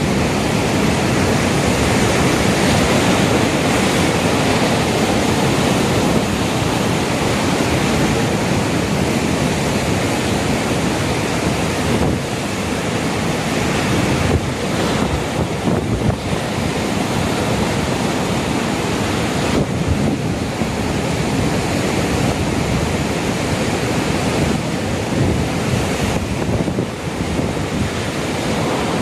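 Heavy storm surf driven by an approaching typhoon, waves breaking and surging continuously against the coast, with wind blowing across the microphone.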